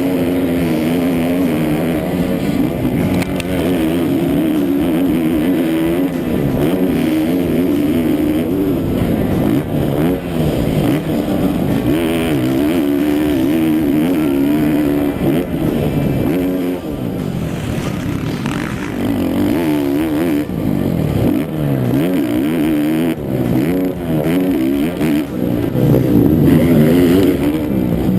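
Motocross bike engines at racing speed, revving up and down over and over as the riders shift and work the throttle, a little louder near the end.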